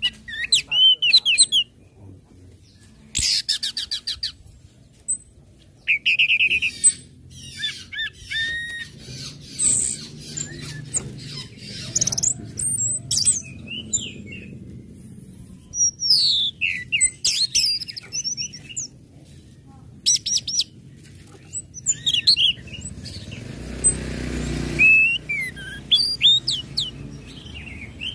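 Orange-headed thrush (anis merah) singing in repeated bursts of sharp chirps, fast trills and whistled phrases. These are the ngecit and ngeplong song types that bird keepers play to stir another thrush into song.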